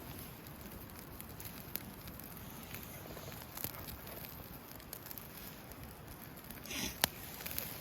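Wood campfire burning under grilling chicken skewers: a steady crackle with scattered small pops, and one sharp loud crack about seven seconds in.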